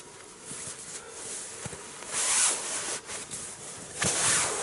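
A nylon sleeping bag being unpacked, with two long zip-like rasps about two and four seconds in, over light fabric rustling.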